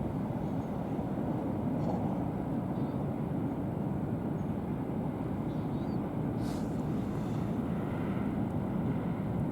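Steady low rumble of a ship's engines, holding an even level throughout.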